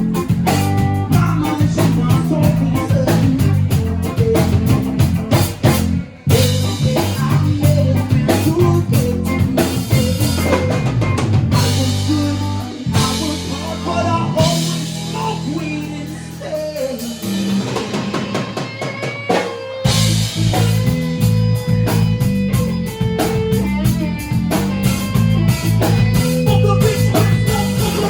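A live rock band plays, with drum kit, bass and electric guitar. The music drops out for a moment about six seconds in, and a stretch of held low bass notes comes in the middle.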